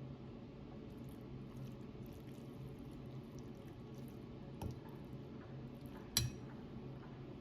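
A steady low hum with a soft knock about two-thirds of the way in, then one sharp clink near the end, the loudest sound.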